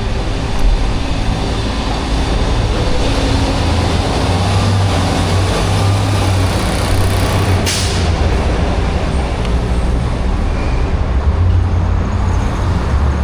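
City road traffic heard from the street, a steady low rumble with a brief hiss about two-thirds of the way through.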